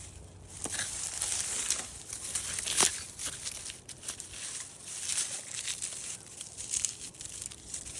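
Dry onion tops and skins crackling and rustling as onions are handled, with irregular sharp crinkles and one louder snap near the middle.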